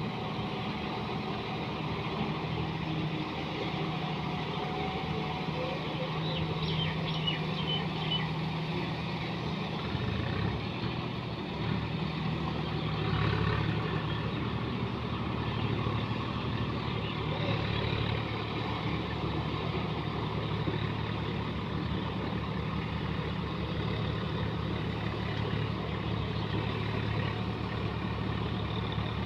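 John Deere 5210 4x4 tractor's diesel engine running steadily, its pitch dropping to a lower, steady note about a third of the way through.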